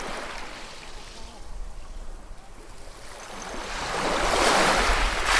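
Ocean waves on a shore: a steady hiss of surf, with a wave building from about three seconds in and breaking loudest near the end.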